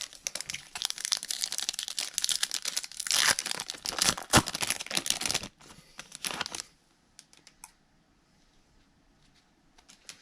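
Foil-plastic wrapper of a Topps baseball card pack being torn open and crinkled, in dense crackling for about five and a half seconds. It thins to a few light rustles and ticks after that.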